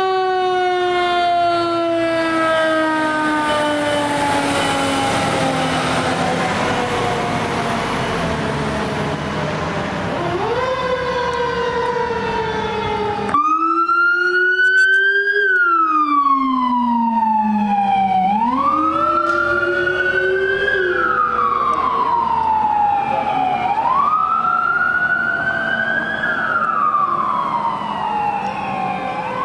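Emergency vehicle sirens. First a siren wail falls slowly for about ten seconds over road noise, with a second rising wail starting just before an abrupt cut. Then a wailing siren rises and falls, about one cycle every four seconds.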